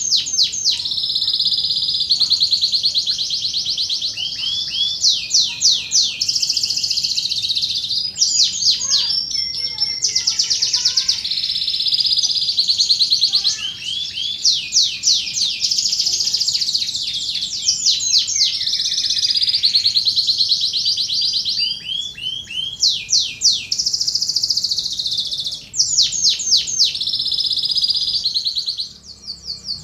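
Domestic canary singing continuously: long rapid trills and rolls of quick repeated notes, broken every few seconds by bursts of fast rising whistles.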